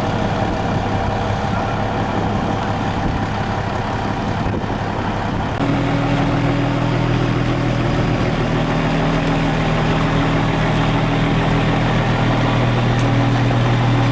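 Heavy vehicle engine running steadily; about five and a half seconds in it picks up to a higher, steadier speed and gets a little louder, then holds.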